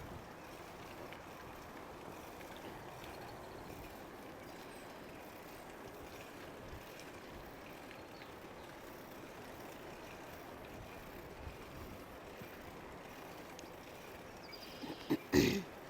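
Steady rushing noise of a bicycle ride, wind and tyres on the road, with a short louder sound about fifteen seconds in.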